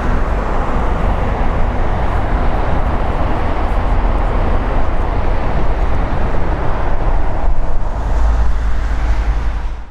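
Jet engine noise of a Lufthansa Cargo Boeing 777F freighter passing: a loud, steady rumble with deep low end, heaviest near the end, then cut off abruptly.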